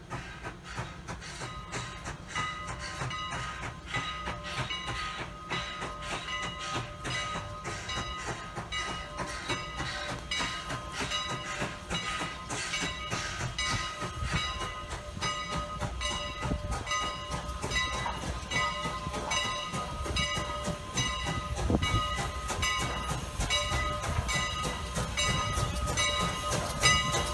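Steam train running, with a fast, even clatter and a ringing tone struck over and over from a couple of seconds in, growing gradually louder.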